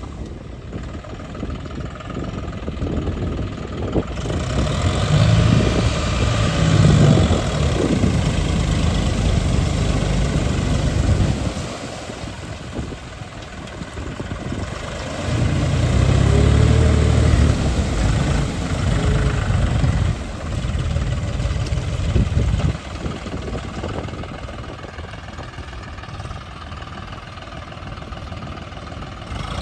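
Tractor engine running, rising in pitch and loudness twice, about five seconds in and again about fifteen seconds in, and dropping back to idle between and after.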